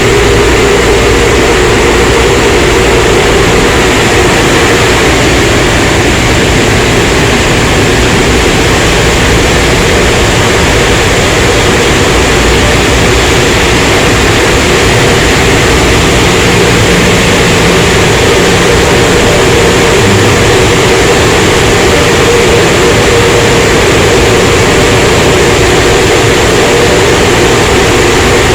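Automatic car wash tunnel equipment running with a loud, steady rushing noise that does not let up.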